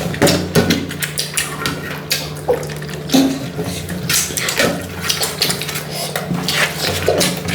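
Eating sounds from rice and oily chicken curry: many quick wet smacks and clicks of mixing, mouthfuls and chewing, with a light clatter against the plate.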